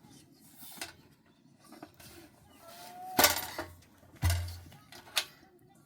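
A few sharp knocks and thuds. The loudest comes about three seconds in, a heavy low thud follows about a second later, and a short faint call is heard just before the loudest knock.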